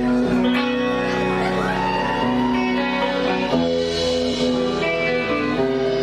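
Live rock band playing an instrumental passage led by guitar, with held chords changing every second or so.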